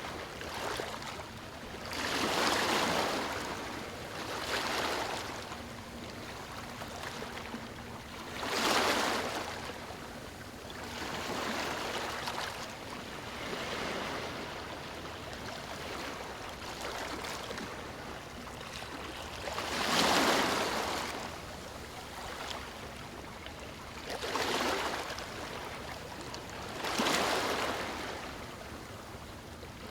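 Small waves breaking and washing over stones, a steady rushing wash that swells with each wave every few seconds, the biggest surges about 2, 9, 20 and 27 seconds in.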